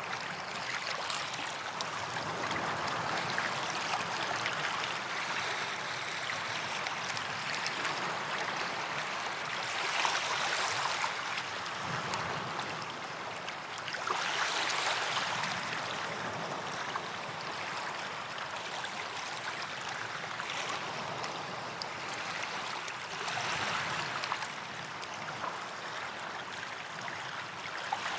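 Small waves washing onto a sandy beach, a steady hiss of water with the surge swelling and fading every few seconds.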